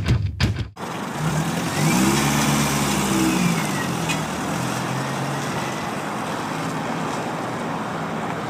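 The end of a music track, then a motor vehicle's engine rising and then falling in pitch for a few seconds, over a steady rushing noise like wind on the microphone.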